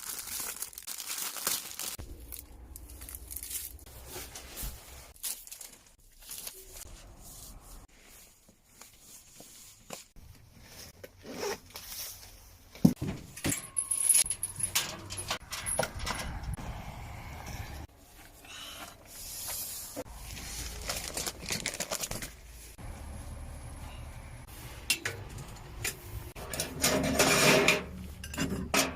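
Small objects being handled: scattered clicks, clinks and knocks with some rustling, busiest near the end.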